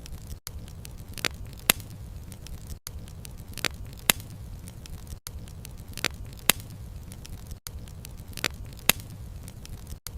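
Campfire crackling: a steady low rumble of burning wood with sharp pops in pairs, repeating about every two and a half seconds with a brief dropout each time, as a short loop played over and over.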